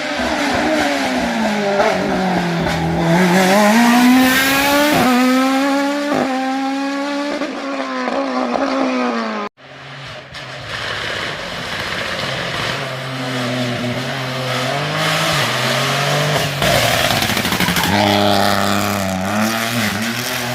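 Race car engine revving hard through slalom chicanes, its pitch climbing and falling sharply with gear changes and lifts off the throttle. About nine seconds in the sound cuts off abruptly, then resumes with an engine running at lower revs.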